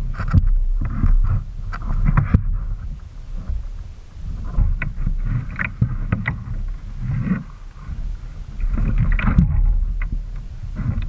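Water sloshing and splashing around a fishing kayak, in irregular spells, with wind rumbling on the microphone.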